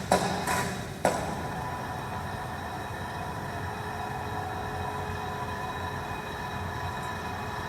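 Industrial machinery running with a steady hum and several steady tones, with three sharp metallic knocks in the first second.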